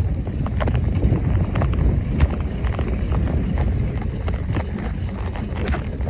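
Wind buffeting the microphone while riding a bicycle: a steady low rumble with scattered light clicks and rattles throughout.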